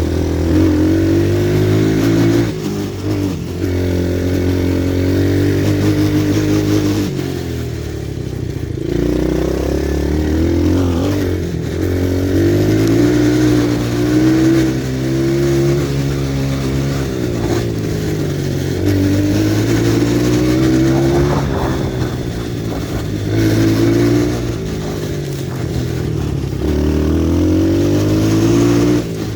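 Pit bike's small single-cylinder four-stroke engine being ridden, its pitch rising and falling again and again as the throttle is opened and closed, with sharp drops several times as it eases off or shifts.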